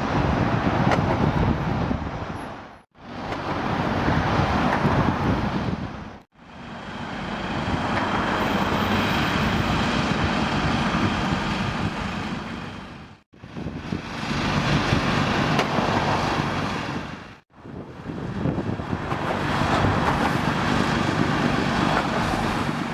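Steady outdoor rumble of road traffic, with wind on the microphone, in five short segments that each fade in and out.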